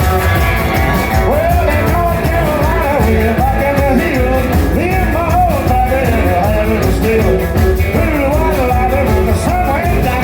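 Live rock and roll band playing an instrumental intro: a bending lead line over bass and steady drums.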